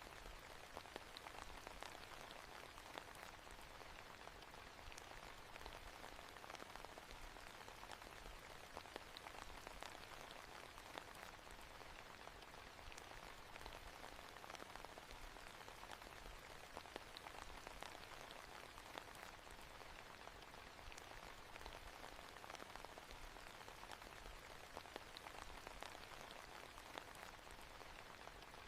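Soft, steady rain falling on a hard surface, with many small drop patters.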